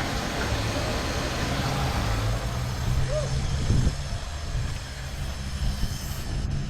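Truck engine idling steadily with a low, even hum, running on its newly installed replacement alternator.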